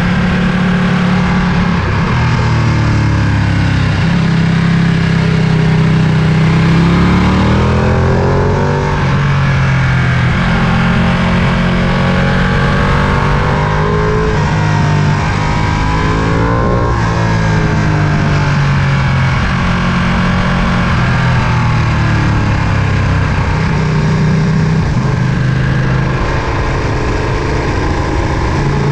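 Ducati Panigale V2's 955 cc Superquadro V-twin engine running under way, its revs climbing and dropping back several times.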